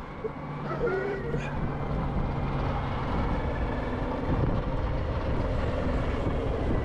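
Riding noise of an electric dirt bike on a trail: wind and tyre noise, growing louder over the first couple of seconds, with a faint steady hum for the first few seconds.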